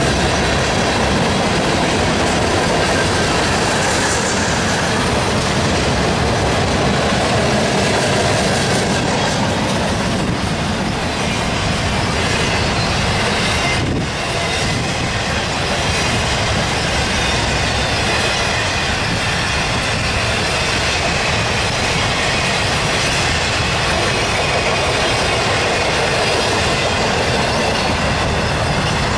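Freight cars, a tank car and then intermodal container cars, rolling past close by: steel wheels running on the rails in a loud, steady rush.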